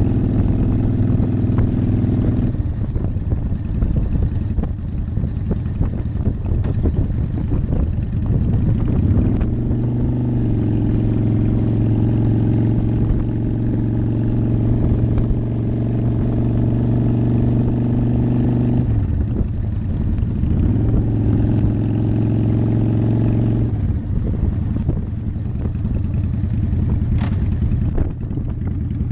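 Motorcycle engine running under way at a steady speed. The engine note drops off about two and a half seconds in, climbs back and holds steady from about ten seconds, then eases off again at about nineteen and twenty-four seconds, as the throttle is rolled off and back on.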